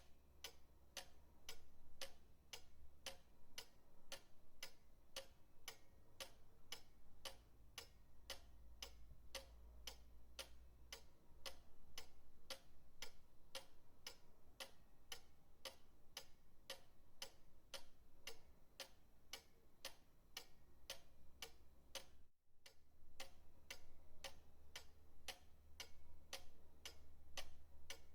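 Pendulum clock ticking steadily, about two ticks a second, over a faint low rumble, with a brief dropout about 22 seconds in.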